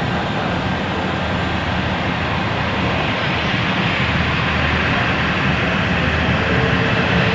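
Jet airliner engines running, a steady rushing noise that grows slightly louder in the second half.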